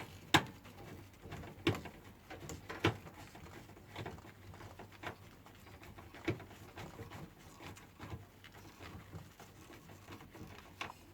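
Scattered clicks and knocks of hand tools and metal parts as components inside a microwave oven are refastened and tightened, loudest in the first three seconds.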